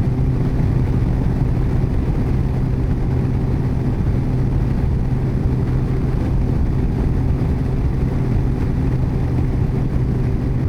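Yamaha FJR1300's inline-four engine running at a steady cruise, holding one pitch, under a constant rush of wind and road noise.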